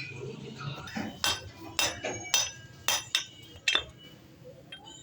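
Metal tools clinking against each other as they are handled: a series of sharp, ringing clinks, about six of them between one and four seconds in.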